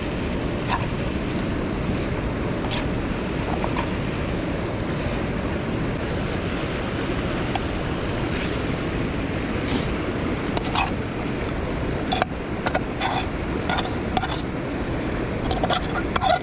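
Mountain stream rushing steadily, with scattered light clicks and taps that come more often in the last few seconds.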